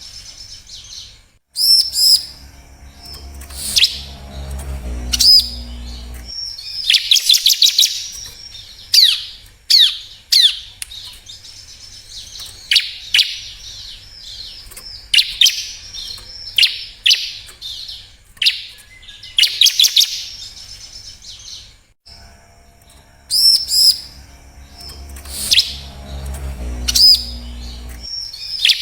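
Bar-winged prinia (ciblek) calling: loud bursts of rapid high chirps and trills mixed with sharp downward-sliding notes, in phrases repeated with short gaps. A low hum sits under the calls twice.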